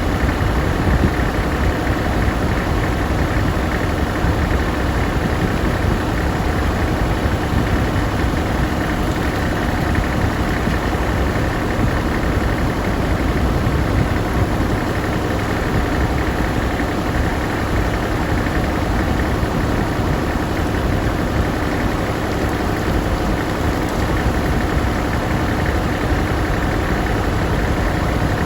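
A farm tractor's engine idling steadily at an even pitch while the radiator is checked for coolant leaks after a stop-leak treatment.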